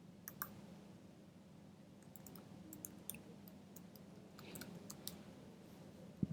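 Faint, irregular clicking of computer keys while login details are typed in, with a soft knock near the end.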